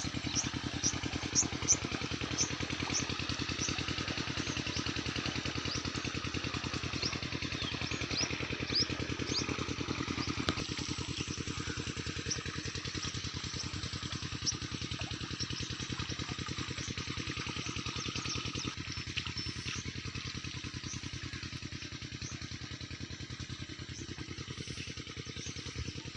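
Irrigation water-pump engine running steadily with a rapid, even tak-tak beat.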